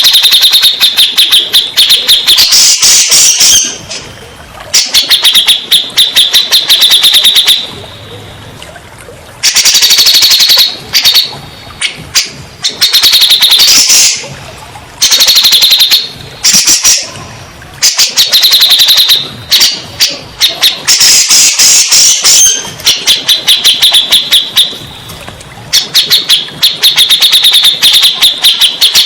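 Grey-cheeked bulbul (cucak jenggot) singing loudly in rapid chattering phrases of a few seconds each, with short pauses between them.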